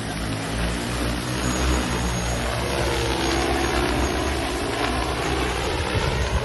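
Propellers of a fertilizer-spreading agricultural aircraft, running with a steady drone. The pitch bends about halfway through as it passes.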